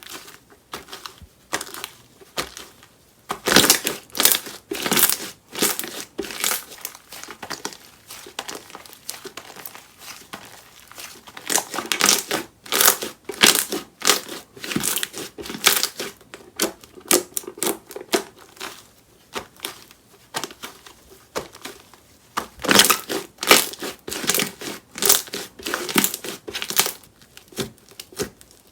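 Slime being squeezed and kneaded by hand, giving dense runs of crackling and popping that come in waves and are loudest a few seconds in, near the middle and toward the end.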